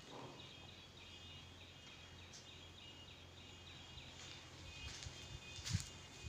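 Faint high chirping of birds, short calls repeating several times a second, with a few footsteps on rubble near the end.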